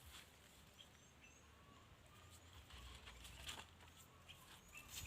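Near silence outdoors: a few faint bird chirps and one brief rustle about three and a half seconds in.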